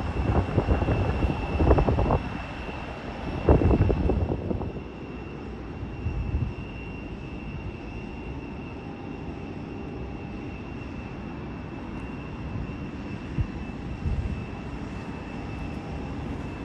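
Steady sound of a jet airliner's engines, with a constant high whine over a low rumble. For the first four seconds or so, wind gusts buffet the microphone loudly and unevenly, then ease off.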